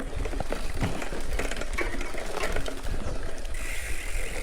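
Giant Fathom hardtail mountain bike rolling downhill over a rough, wet trail: tyre noise with rattles and clicks from the bike, and wind on the chest-mounted camera. A thin steady whine comes in about three and a half seconds in.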